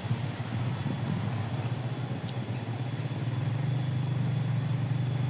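A small engine running steadily with a low hum, growing a little louder about three seconds in.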